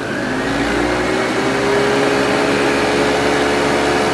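Vorwerk VK 121 upright vacuum cleaner running with its ET340 powerhead's brush roll turning on carpet, its motor climbing in pitch over the first second or so as it comes up to speed, then running steadily. It is starting up after sitting unused for a long while, and it still runs.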